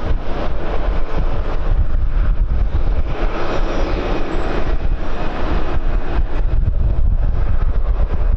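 Jet airliner engines passing, a broad noise that swells over a couple of seconds and fades, over heavy wind buffeting on the microphone.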